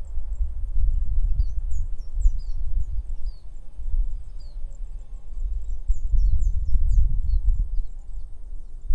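Wind gusting against the microphone as a loud, uneven low rumble, while small birds give many quick high chirps, in flurries about two seconds in and again around six to seven seconds.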